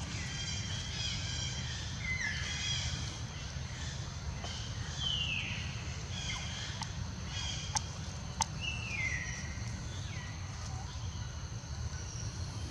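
Animal calls: short, high squeals that slide down in pitch, repeated every second or two over a steady low rumble, with a couple of sharp clicks about two-thirds of the way through.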